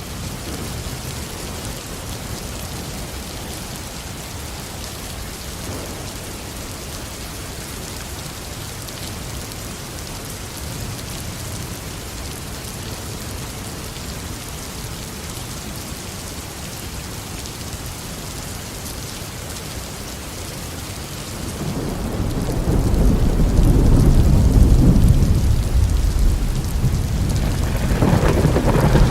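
Steady tropical rain falling on a garden, with a long rolling thunder rumble starting about three-quarters of the way through, swelling and fading, and a second rumble building near the end.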